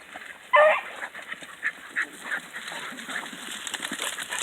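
A hunting hound bays once, loud and drawn out, about half a second in, followed by scattered short, fainter yelps and barks from the pack giving voice on the chase.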